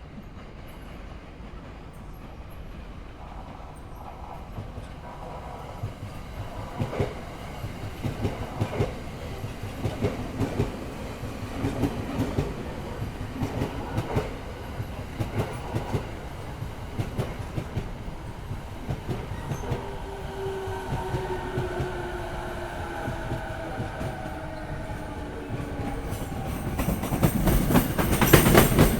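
Sobu Line electric commuter trains clattering over rail joints: a run of rapid, irregular clacks that starts about six seconds in, then a falling whine. Near the end a louder train rushes in close, with heavy noise and clatter.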